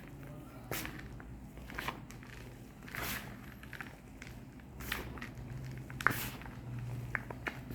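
Reformed gym chalk bars being crushed, giving about seven crisp, irregular crunches spaced roughly a second apart, some with a short crumbling tail.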